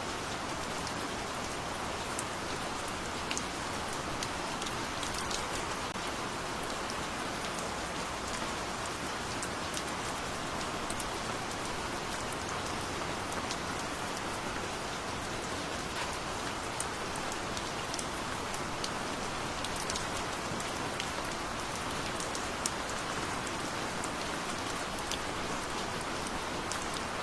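Steady rain falling, an even hiss with the light ticks of single drops striking a surface.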